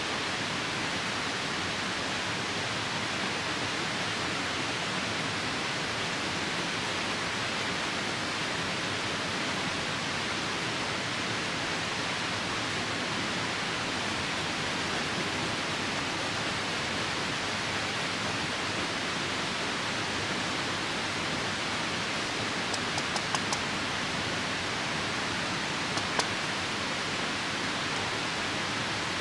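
Steady rushing of a nearby river. A few sharp crackles from the campfire come in a quick cluster of four about three-quarters of the way through, then once more a few seconds later.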